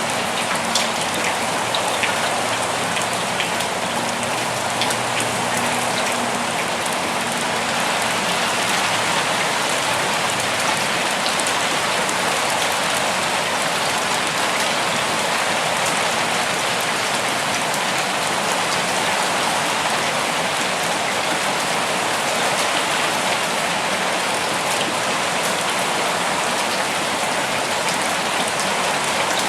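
Steady rain falling, with separate close drops ticking in the first few seconds.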